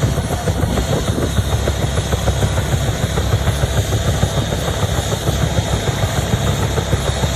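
Bell UH-1 Huey helicopter running: the rapid, steady beat of its two-blade main rotor over the engine.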